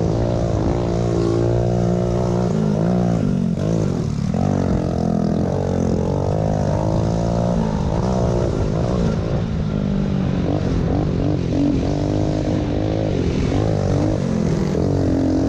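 Small pit bike engines running together, their pitch rising and falling as the riders open and close the throttle, with a steadier lower engine note underneath.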